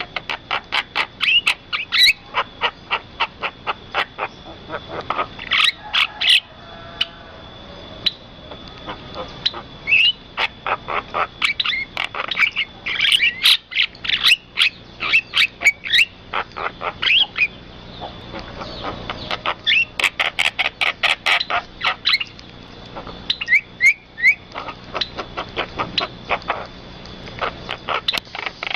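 Birds calling in quick trains of short chirps, several a second, mixed with whistled notes, the runs broken by brief pauses. A thin steady high tone runs underneath.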